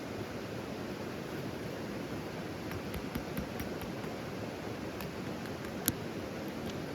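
Steady rushing noise with a few faint clicks and one sharper click near the end.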